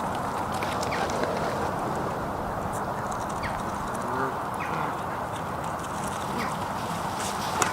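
A group of ducks quacking, with short scattered calls over a steady rushing background.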